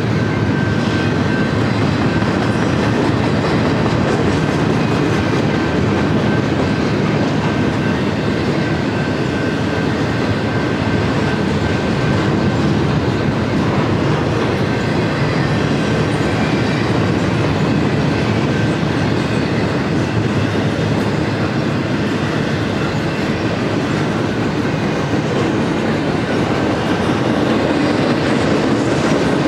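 BNSF freight train cars rolling past at steady speed: a continuous rumble and clatter of steel wheels on the rails, with a faint steady high-pitched wheel whine over it.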